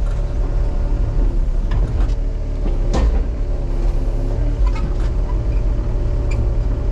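Excavator's diesel engine running steadily under load as the machine pushes against a tree, with a few sharp cracks and knocks about two, three and nearly five seconds in.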